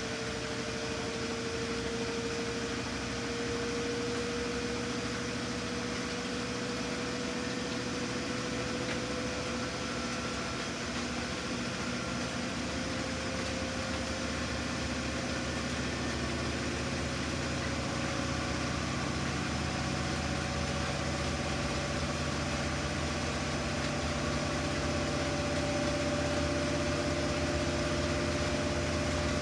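Samsung washing machine in its spin, the motor whine climbing slowly and steadily as the drum gathers speed over a steady humming drone, without the usual slow-down and speed-up pauses.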